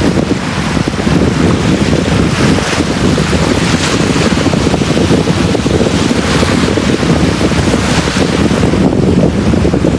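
Sea waves breaking and washing on a beach, a continuous rush with hissing surges every couple of seconds, under a heavy rumble of wind on the microphone.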